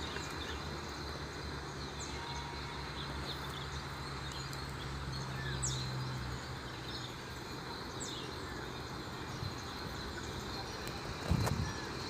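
Outdoor background noise with a steady low hum and a few faint, short, high bird chirps scattered through it. A brief louder low sound comes near the end.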